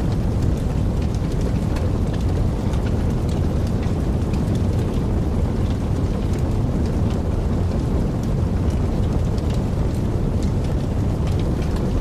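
Wood fire burning in a fireplace: a steady low roar of the flames with frequent small crackles and pops scattered throughout.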